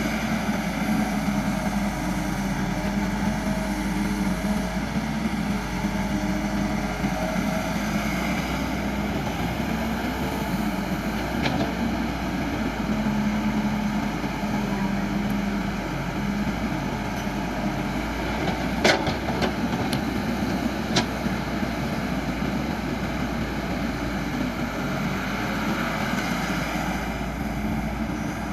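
Caterpillar MS120-8 excavator's diesel engine running steadily under work, with its pitch wavering slightly. A few sharp knocks sound about two-thirds of the way through.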